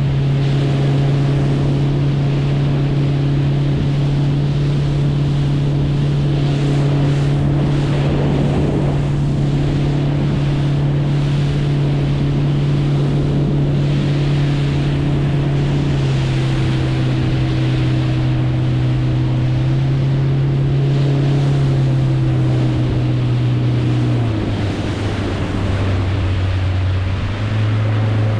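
Boat motor running at steady speed over the hiss of water and wind. Its hum drops in pitch a few times in the second half as the throttle is eased.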